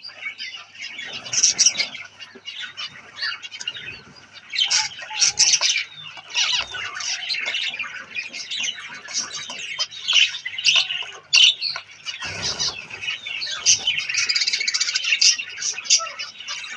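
A colony of zebra finches calling together: many short chirps overlapping without a break, with a burst of wing flapping about twelve seconds in.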